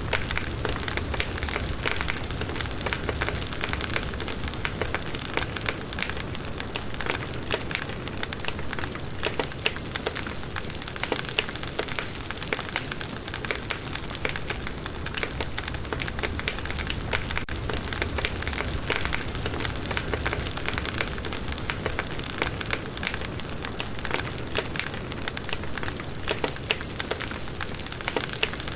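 Campfire of firewood burning: a dense, continuous crackle of small pops and snaps over an even hiss of flame.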